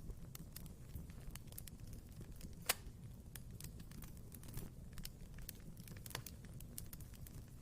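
Wood fire burning in a fireplace, crackling with frequent small pops over a low steady rumble; one sharper pop about two and a half seconds in.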